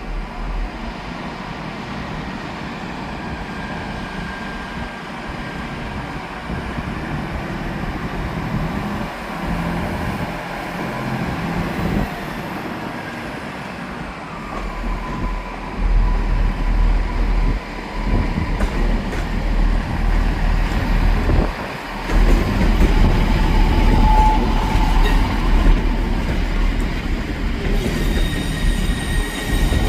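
A train running past, its rumble growing louder about halfway through, with a thin steady whine sounding for a few seconds in the middle.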